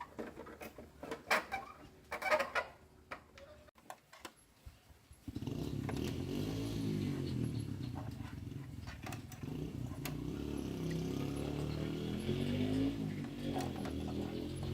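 A few short, scattered sounds. About five seconds in, an engine starts up and runs on, its pitch rising and falling as it is revved.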